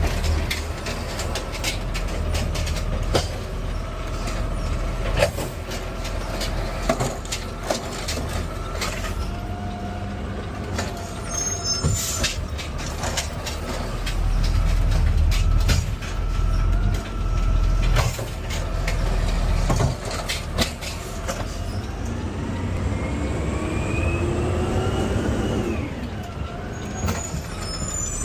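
Garbage truck's automated arm picking up and emptying a cart: the engine revs under the hydraulic load, with repeated knocks and clatter from the cart and arm, and a rising whine near the end that falls away.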